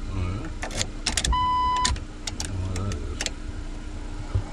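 Sharp clicks from a 1998 Jeep Wrangler's ignition and steering column as the switch is tried after the broken actuator pin was replaced. A single electronic warning beep sounds about a second and a half in, with a low rumble underneath.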